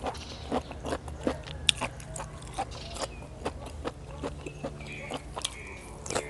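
Close-miked chewing of beef tripe salad: a steady run of wet, crunchy bites, about three a second.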